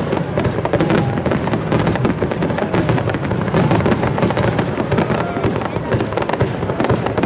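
Aerial fireworks display: many shells bursting in quick succession, a dense run of sharp pops and crackles over a continuous low rumble.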